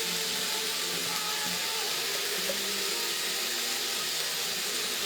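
Chicken and peanuts sizzling in a wok: a steady hiss.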